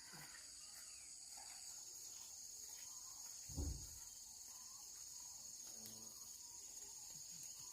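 A steady, high-pitched drone of insects, with one dull thump about three and a half seconds in.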